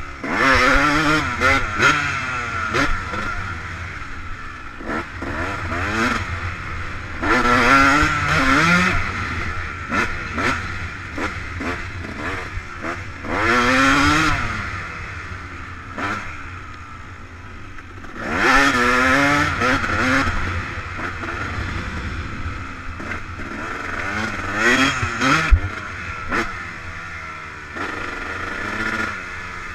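Yamaha YZ250 two-stroke motocross bike running hard, opening up in loud surges of throttle every five or six seconds, its pitch wavering up and down with gear changes, with quieter running between.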